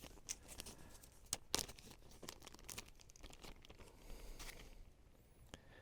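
Crinkly packaging being handled and torn open: a run of rustles and sharp crackles that dies away near the end.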